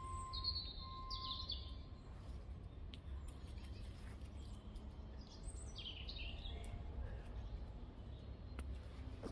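Wild birds calling outdoors: two short bursts of high chirps, about half a second in and again about five and a half seconds in, over a steady low rumble.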